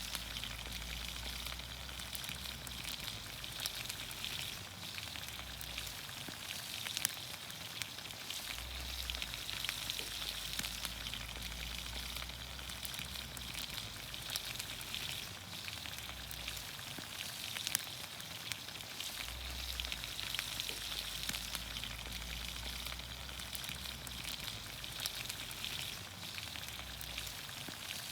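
Vegetables in olive oil cooking over a campfire, sizzling steadily with many small scattered crackles.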